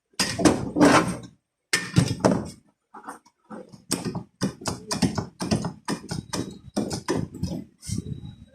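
A series of knocks and taps: a few heavy thumps at first, then lighter taps about two to three a second, typical of tapping out the last of a dent in a car door panel.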